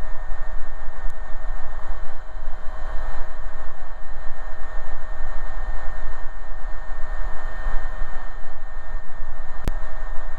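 Steady cabin noise of an AgustaWestland AW119 Koala single-turbine helicopter in cruise: a low rotor and engine drone with a constant whine over it. A single sharp click sounds near the end.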